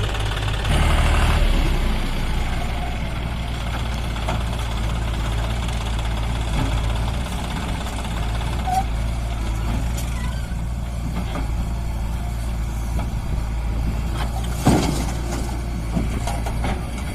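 John Deere 5204 tractor's three-cylinder diesel engine running steadily with a loaded trolley behind it, rising in level for a second or so near the start. A single sharp knock comes about 15 seconds in.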